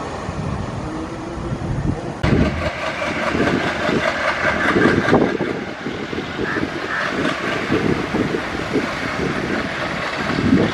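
Train noise, a steady rumble that cuts abruptly about two seconds in to a louder, irregular gusty rumble, with wind buffeting the microphone.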